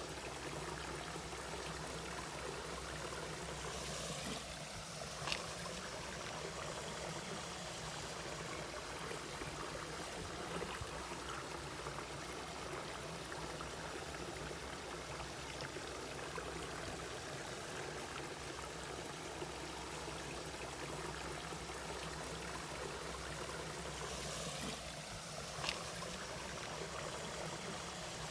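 Mountain valley stream flowing steadily over rocks, with a brief sharper splash or tick about five seconds in and again near the end.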